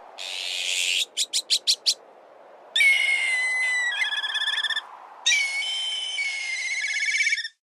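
Black kite calls, twice: each a high, drawn-out whistle that slides slightly downward and then breaks into a fast, quavering trill. Before them come a brief hiss and a quick run of about five short, harsh notes.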